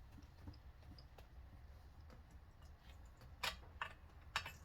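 Quiet low hum with a few faint clicks and light knocks, mostly in the second half.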